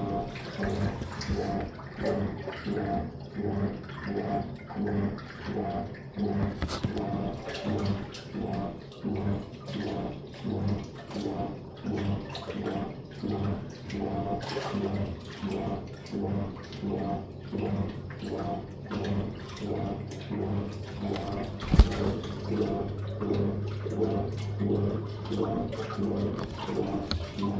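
Living & Co top-loader washing machine draining during its final spin: the drain pump hums steadily while water rushes and gurgles out in rhythmic surges, about one and a half a second. There is a single sharp knock about 22 seconds in, and after that the hum is stronger.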